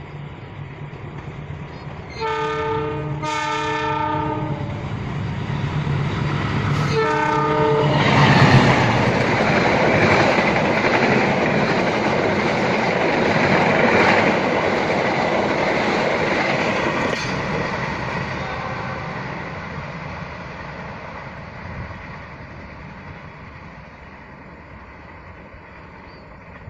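Passenger train's locomotive horn sounding two blasts and then a shorter third, followed by the train passing with loud wheel-on-rail rumble and clatter that slowly fades as it goes by.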